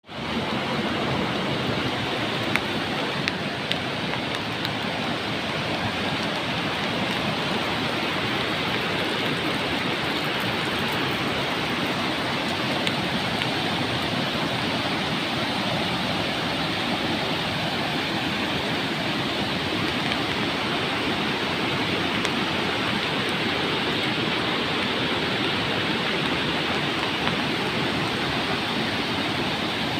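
Beas River rushing in full flow: a steady, dense roar of fast water over rocks.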